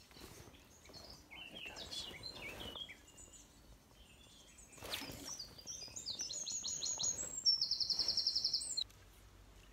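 Songbird singing: a few short high chirps, then a quick run of high notes that becomes a fast, even trill and stops sharply near the end.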